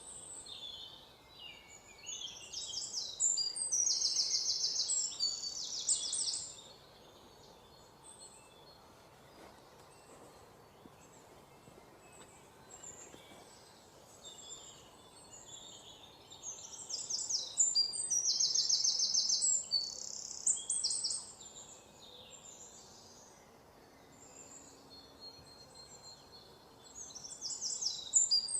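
A songbird singing phrases of fast, high-pitched trills, each a few seconds long, with pauses of about ten seconds between them, over a faint steady background hiss.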